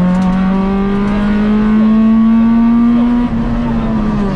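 Peugeot 106 XSi rally car's four-cylinder engine heard from inside the cabin, pulling hard in gear with the revs climbing slowly and steadily, then dipping about three seconds in and falling away near the end.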